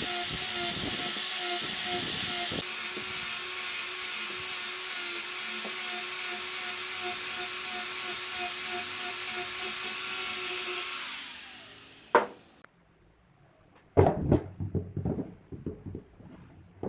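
A high-speed power tool running steadily against wood, then switched off and winding down about eleven seconds in. A sharp click follows, then a few wooden knocks near the end.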